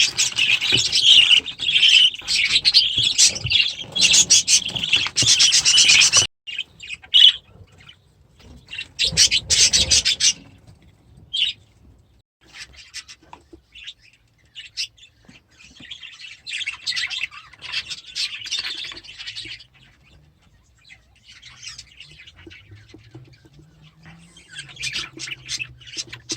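Small aviary birds chirping. A dense chorus cuts off suddenly about six seconds in, there is a short loud burst a few seconds later, and fainter scattered chirps follow.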